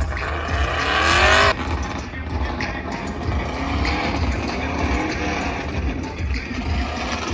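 A vehicle engine revving, its pitch rising, then cutting off abruptly about a second and a half in, over a steady low rumble.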